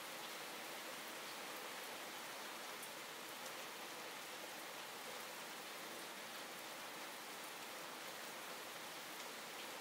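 Calm, steady rain falling, an even hiss with a few faint ticks of single drops.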